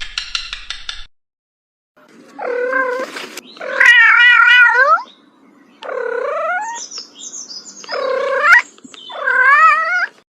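Domestic cat meowing: about five long, drawn-out meows with a wavering pitch, starting about two seconds in.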